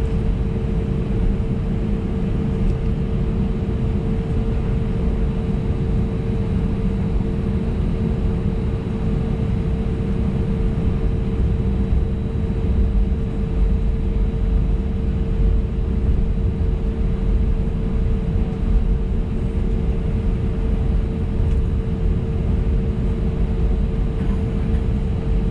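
Cabin noise of an Airbus A320neo taxiing: a steady low rumble from its CFM LEAP-1A engines at taxi power, with a constant hum over it.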